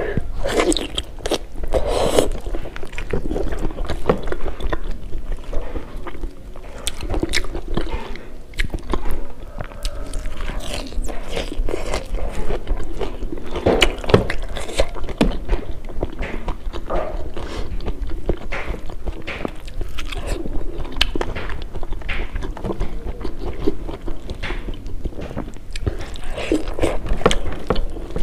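Close-miked chewing, biting and mouth smacks of a person eating pork curry and rice by hand: a steady, irregular run of short wet clicks and smacks, with fingers working food on the plate.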